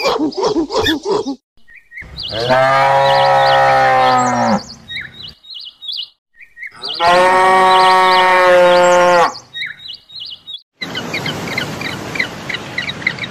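Cows mooing: two long moos, each about two seconds, with small birds chirping between them. At the start a quick run of repeated calls ends, and near the end comes a stretch of rapid high chirping over a rushing noise.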